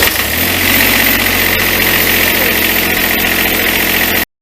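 Kubota B7100HST-E's little three-cylinder diesel engine, just started, settling within the first half second into steady running. The sound cuts off suddenly about four seconds in.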